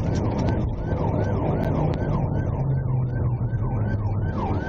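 Police cruiser's electronic yelp siren, sweeping up and down about two and a half times a second, heard inside the car during a high-speed pursuit, over the steady drone of the engine and road noise.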